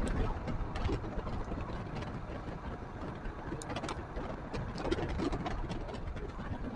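Royal Enfield Himalayan's single-cylinder engine running as a steady low rumble, with scattered sharp ticks over it.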